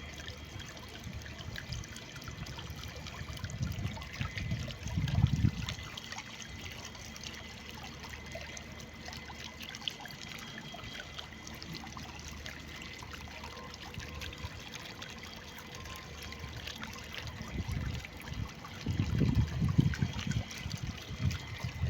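Water in a small pump-driven recirculating fountain trickling and splashing steadily. Low rumbling thumps come in about four to five seconds in and again in the last few seconds.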